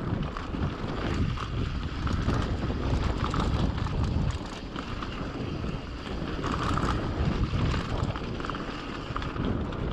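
Wind buffeting the action camera's microphone over the low rumble of a mountain bike rolling down a rough trail, with scattered small rattles and clicks from the bike.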